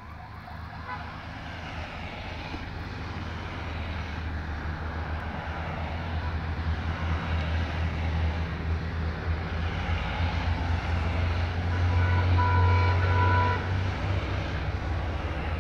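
Honda Gold Wing motorcycles riding by in a procession, engines running with a steady low rumble that grows louder as they approach. A brief steady high tone sounds about twelve seconds in.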